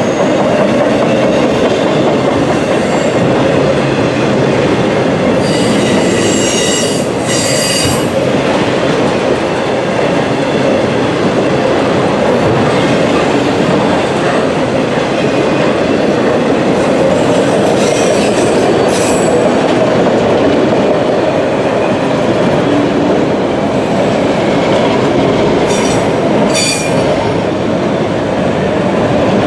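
Freight train cars rolling past on the rails in a steady rumble, with short high-pitched wheel squeals at about six to eight seconds in, again near nineteen seconds, and near the end.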